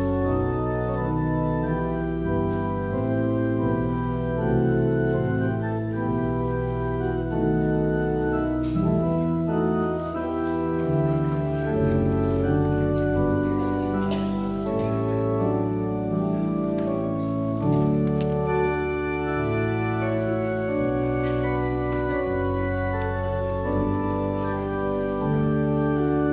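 Organ playing slow offertory music in sustained chords that change every second or two.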